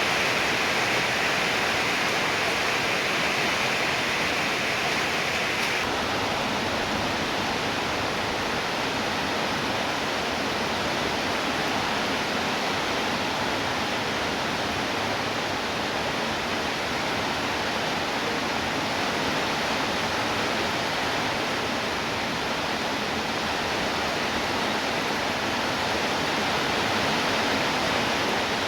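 Steady heavy rainfall, a dense even hiss, with a higher hiss that drops away about six seconds in.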